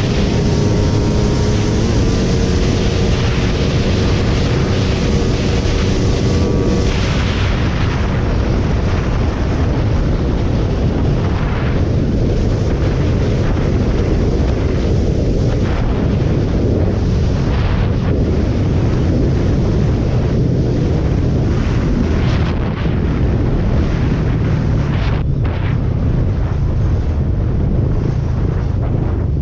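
Suzuki Raider Fi motorcycle being ridden: a steady loud rumble of engine and road, heavily buffeted by wind on the microphone.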